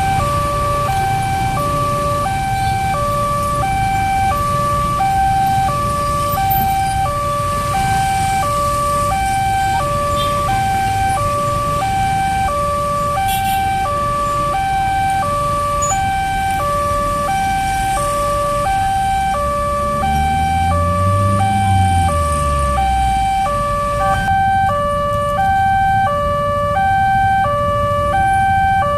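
Electronic railway level-crossing alarm sounding its two-tone warning, a high and a low tone alternating steadily about once a second, over a low rumble. About two-thirds of the way through, a low engine note rises and falls.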